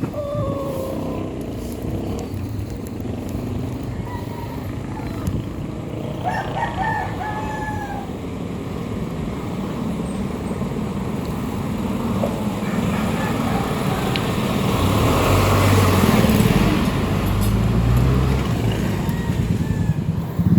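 A rooster crowing, one call trailing off right at the start and another about six seconds in, over steady outdoor noise. From about fourteen seconds a motor vehicle's engine grows louder.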